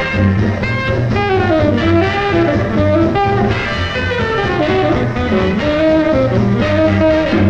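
Swing dance band playing an instrumental passage, a moving melody line over a steady bass beat, with no singing.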